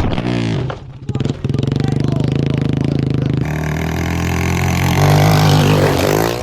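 Off-road vehicle engine running hard under throttle. The throttle comes off briefly about a second in, then the engine pulls steadily and builds again in the second half.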